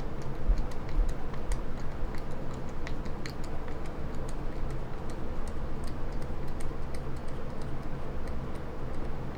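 Small irregular clicks and ticks of a small screw and screwdriver working against the metal parts of a Morse straight key kit as the screw is fitted from underneath, over a steady low hum.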